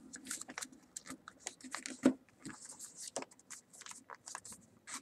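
A sheet of paper being handled and folded by hand: irregular short crinkles and rustles, with one sharper snap about two seconds in.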